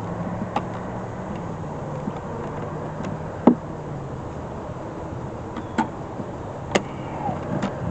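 Honeybees buzzing as a steady low hum, with a few sharp clicks and knocks of the hive frame and equipment being handled, the loudest about three and a half seconds in.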